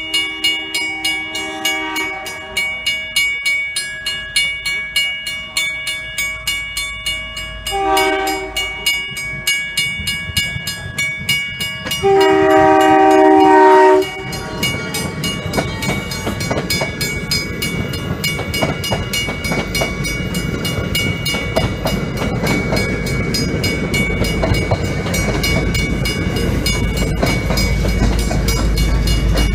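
Railroad crossing bell ringing about twice a second as an MBTA commuter train approaches. The train sounds its horn: a faint blast at the start, a short one about eight seconds in, and a long, loud blast from about twelve to fourteen seconds. The train then passes the crossing, and the rumble and clatter of its wheels on the rails swell toward the end.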